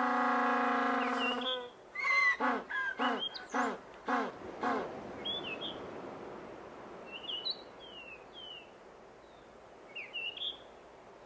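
Penguin braying call: one long drawn-out pitched note, then a run of short rhythmic honks. After that it goes quieter, with only brief high chirps, until a few more short calls near the end.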